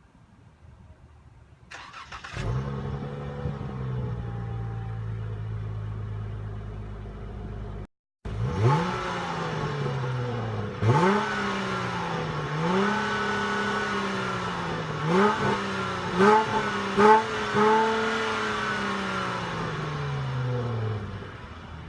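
2015 Dodge Charger Rallye's 3.6-litre V6 through its stock exhaust. It starts about two seconds in and settles into an idle. After a brief dropout it is revved about seven times, and the last rev eases back down to idle near the end.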